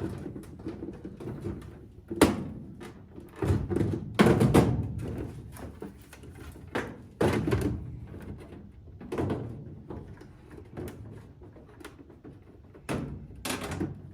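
Irregular knocks, clunks and scrapes of an Aprilaire whole-home humidifier being pushed and worked into a freshly cut opening in sheet-metal HVAC ductwork, the thin duct metal sounding with each bump.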